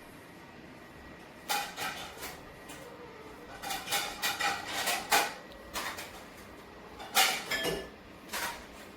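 Irregular clattering and clinking of hard objects knocked together, in several separate bunches, some knocks ringing briefly.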